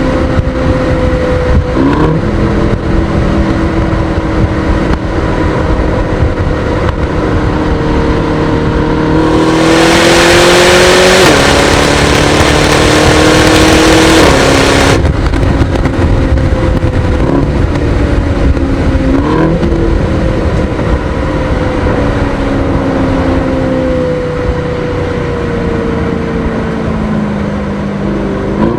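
Aston Martin DBX S's 4.0-litre twin-turbo V8 under way through a gearbox: the engine note sags, then climbs as it accelerates, stepping down at an upshift. A loud rushing noise joins it for about five seconds at the peak. The note then falls as the car slows, with short rising blips at two downshifts.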